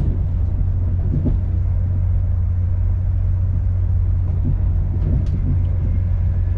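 Steady low rumble in the passenger saloon of a Class 221 Super Voyager diesel-electric train on the move, from its underfloor diesel engines and wheels on the rails, with a few faint clicks.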